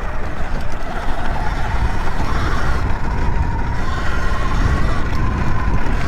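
Sur Ron electric dirt bike being ridden: a thin, steady electric-motor whine that rises slightly in pitch partway through, under heavy wind rumble on the helmet-mounted mic.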